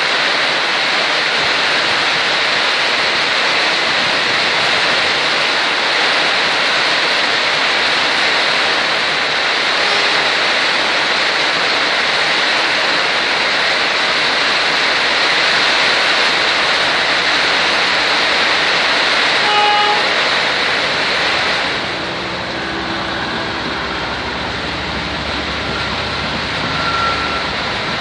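Heavy rain hissing steadily on surfaces, with a single short horn toot about twenty seconds in. Soon after, the rain noise drops and a train's low engine rumble comes through.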